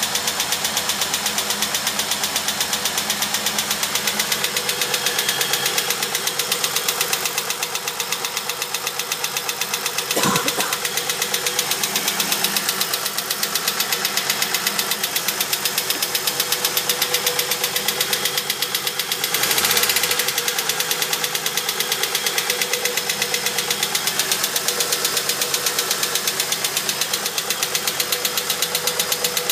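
Holden VT Commodore Berlina engine running with a fast, steady ticking, the fault the owner is recording on the 200,000 km car. There is a brief louder moment about ten seconds in and another around twenty seconds.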